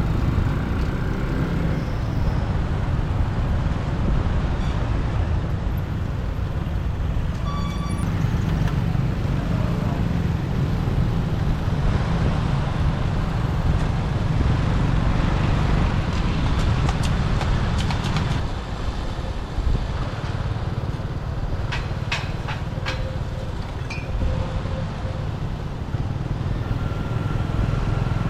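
Road and traffic noise heard from a moving motorbike in city traffic: a steady low rumble of engine, wind and tyres. A short beep sounds about eight seconds in.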